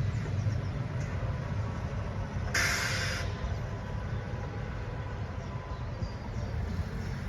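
Steady low rumble of a DB Cargo class 6400 diesel locomotive running with a work train, with a short burst of air hiss from its brakes about two and a half seconds in.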